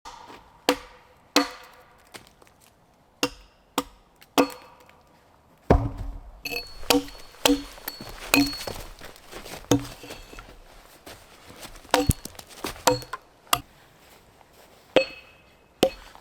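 Wood being chopped: about fifteen sharp, irregularly spaced strikes, each with a brief ringing note, coming thickest in the middle stretch.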